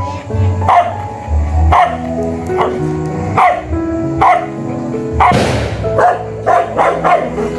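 A dog barking again and again over music with steady held notes. A brief hiss comes about five seconds in.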